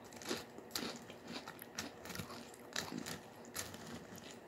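Someone chewing a mouthful of crunchy Cap'n Crunch cereal in milk: irregular crisp crunches, several a second.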